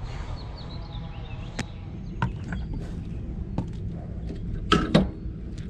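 Scattered sharp clicks and knocks of tools and pipe fittings being handled, over a steady low hum; two louder knocks come close together near the end.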